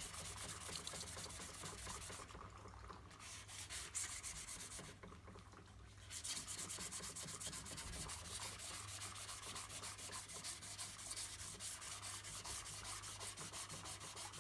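Sandpaper rubbed back and forth over hardened body filler in quick, even strokes, dry-sanding it to shape. The strokes pause briefly twice in the first half.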